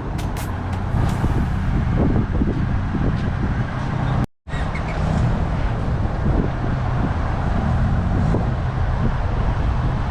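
Steady low rumble of road traffic and cars, with faint distant voices. The sound cuts out completely for a moment a little over four seconds in.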